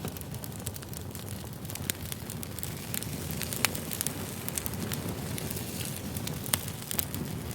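Campfire burning with a steady low rush and frequent sharp crackles and pops, one louder pop a little past the middle.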